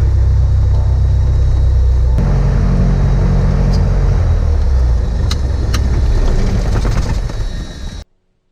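Cessna 172's piston engine and propeller running, a loud steady low rumble heard inside the cabin, its tone shifting about two seconds in, with a few sharp clicks later on. The sound cuts off abruptly near the end.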